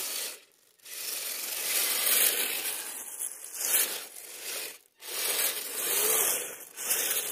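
Radio-controlled scale crawler driving over icy snow: its tyres crunch and scrape while its drivetrain grinds. The sound cuts out briefly about half a second in and again near five seconds, as the throttle comes off and back on.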